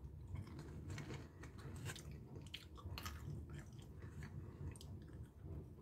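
A person chewing dry roasted peanuts with the mouth close to the microphone: faint, irregular crunching.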